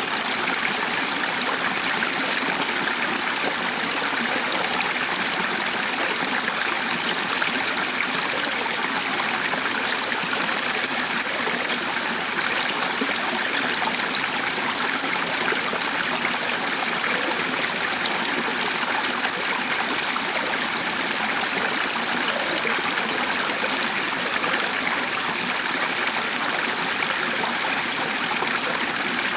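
Flowing water, a steady unbroken rush like a stream, with no change in level.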